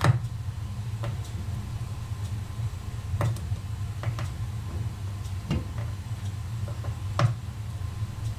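Sharp, irregular small clicks and taps of metal watchmaker's tools and tiny movement parts being handled on the bench during a teardown, about one every second or two, over a steady low hum.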